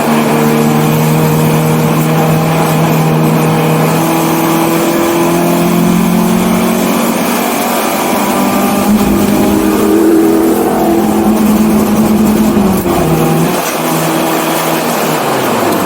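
1984 BMW 318i's inline four-cylinder engine running hard at racing speed, its pitch holding mostly steady with small rises and two brief drops, near 13 seconds and just before the end, as the driver lifts or shifts.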